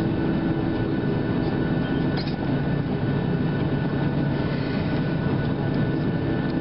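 Steady cabin noise inside a Boeing 737-700 on the ground: a low, even rumble with a steady hum.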